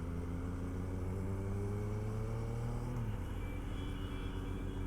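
Motorcycle engine running under way, its pitch rising slowly for about three seconds, then dropping back, as with a gear change.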